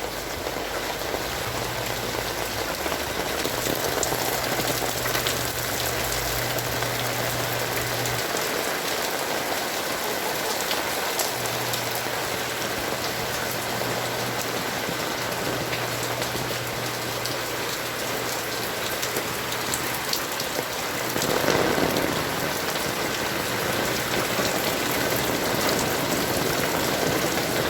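Heavy rain falling steadily, with many sharp drop hits close by. A brief louder rush of water noise comes about three-quarters of the way through.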